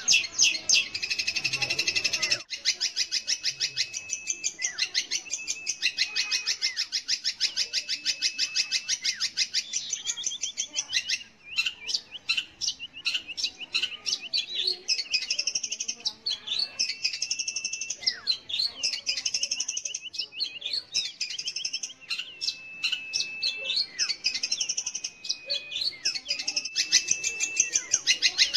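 Long-tailed shrike (cendet) singing: fast runs of sharp chattering notes, several a second, broken by short steady whistles and looping phrases.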